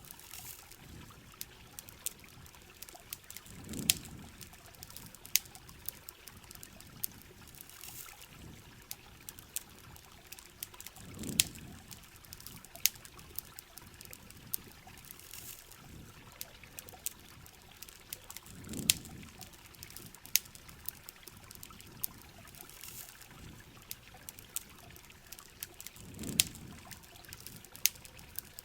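Mixed rain ambience: a steady wash of heavy rain with many scattered sharp clicks and pops. A low water swell, like a trickle or pour, comes back evenly about every seven and a half seconds.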